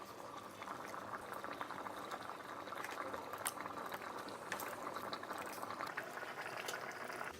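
Pot of broth boiling hard in an electric kettle: a steady bubbling with many small pops and crackles, which cuts off suddenly at the end.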